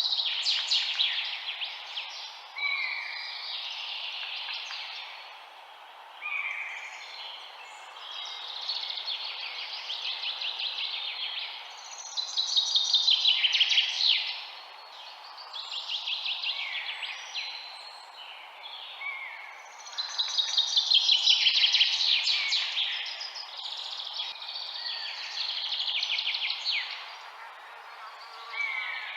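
Songbirds singing in repeated phrases of rapid trills and falling notes, a burst every few seconds, over a steady background hiss.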